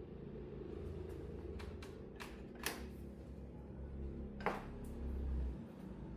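Several sharp clicks and light knocks of objects being handled, the loudest two about 2.7 and 4.5 seconds in, over a steady low hum.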